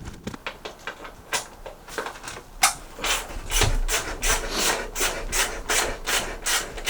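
Hand sawing: a saw rasping back and forth, irregular at first, then settling about halfway in into a steady rhythm of about four strokes a second.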